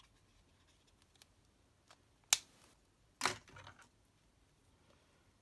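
Small craft supplies being handled on a work desk: one sharp click about two seconds in, then a short clatter of clicks and knocks about a second later.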